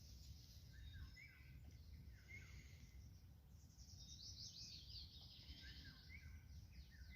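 Several small birds singing and chirping, with short falling whistled notes throughout and a fast, dense trill about four seconds in, over a faint low rumble of wind.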